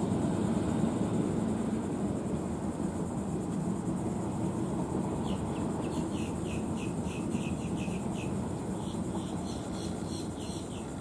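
Freight train cars rolling past, a steady low rumble of steel wheels on rail. About five seconds in, a run of quick high chirps starts, about four a second, breaks off briefly and then resumes.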